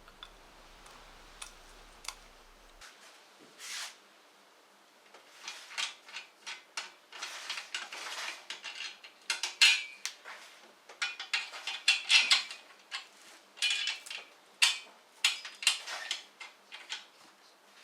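Small metal engine parts and tools clinking and clattering as they are handled and set down during an engine teardown: a few quiet seconds with one soft knock, then from about five seconds in a busy, irregular run of light metallic clinks.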